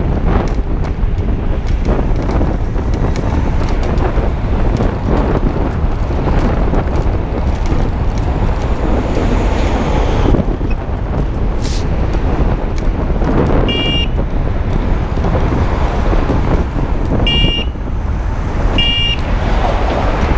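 Wind rushing over the microphone and traffic noise from a moving electric bike ride, with three short high-pitched toots in the second half.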